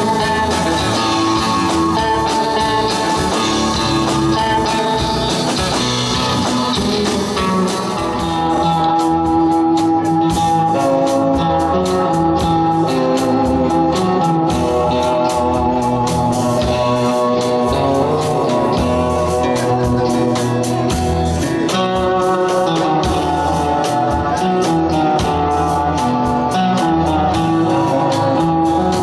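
Live rock and roll band playing an instrumental passage led by electric guitar over a steady beat; about eight seconds in the texture changes and a crisper, evenly repeating rhythm takes over.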